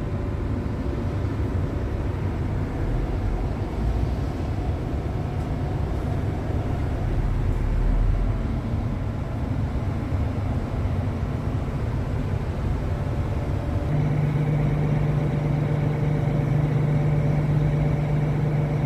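Diesel engine of a Doosan 360LCA crawler excavator running steadily. About fourteen seconds in, its note steps up to a higher, steady pitch.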